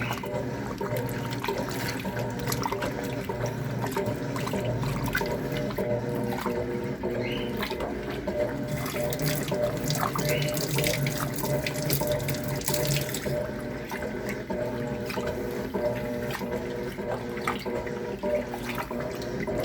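Electrolux LTC10 top-loading washing machine filling its tub with water: a steady rush of water pouring in, with a low hum under it.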